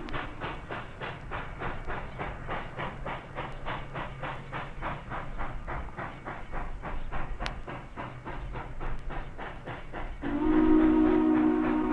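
Illinois Central 2-8-2 steam locomotive No. 1534 working at speed, its exhaust chuffing rapidly in an even beat of about five a second. Near the end its chime whistle blows a loud, steady, several-note chord.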